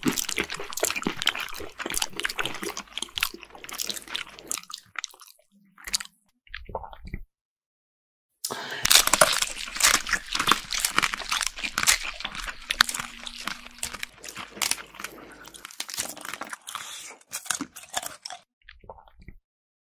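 ASMR eating sounds: close, crackly crunching and chewing in dense runs. One run fades out about four seconds in; after a short break of silence a second long run starts and thins out toward the end.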